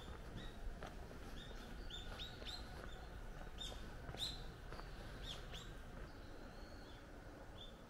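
Small birds chirping: short, high calls repeated in quick succession, thickest in the middle and thinning out near the end, over faint low outdoor background noise.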